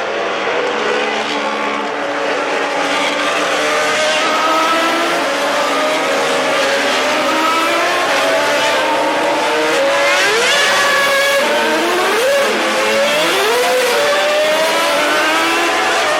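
Formula One cars racing, several engines heard at once, their high pitch rising and falling with throttle and gear changes, with a few quick rising sweeps in the middle.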